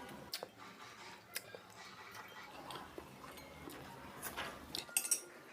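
Eating sounds: spoons or forks clinking and scraping against plates now and then, a few scattered sharp clicks with a small cluster near the end.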